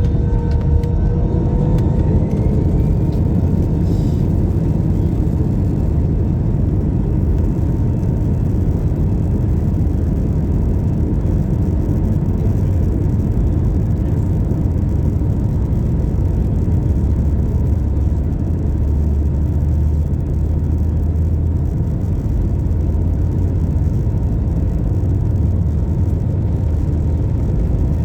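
Airliner cabin noise from the engines: a loud, steady low rumble under a steady whine. A brief rising whine comes in the first few seconds.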